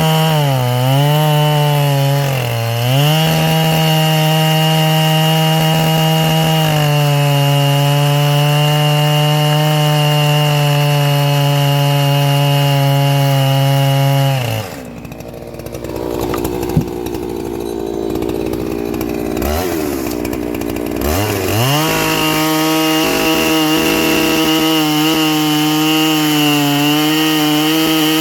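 Ported Husqvarna 3120XP two-stroke chainsaw, its carburettor set slightly rich, cutting logs at full throttle: the engine note pulls down and recovers twice in the first few seconds, then holds steady and high. About halfway it drops to idle for several seconds, with one sharp tick, then revs back up and runs at full throttle again to the end.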